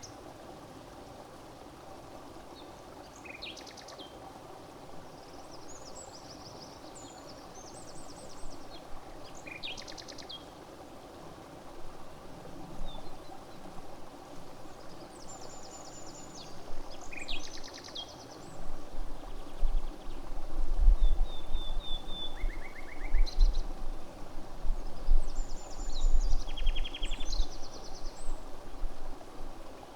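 Outdoor lakeside ambience: small birds call with short, high trills and chirps scattered throughout over a steady background hum. From a little past halfway, wind gusts buffet the microphone with loud, irregular low rumbles.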